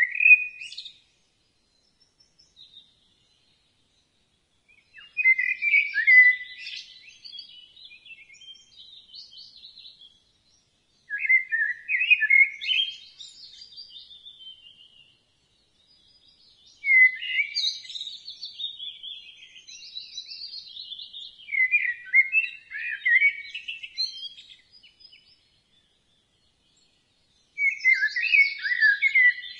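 Blackbird singing: about six song phrases a few seconds apart, each a low warbled phrase followed by a higher, thinner twitter, with silence between them.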